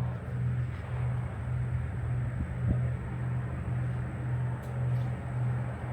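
Car running with a low, steady drone of engine and road noise.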